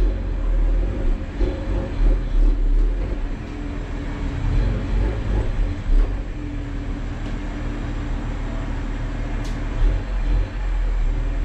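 2023 Toyota Supra's engine running at idle as the car backs slowly into place, a steady low hum.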